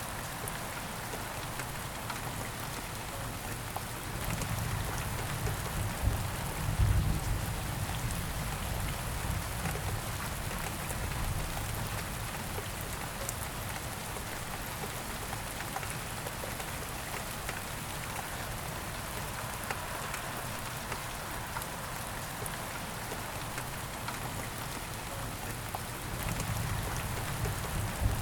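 Steady rain falling, with a low rumble swelling up twice, about four seconds in and again near the end.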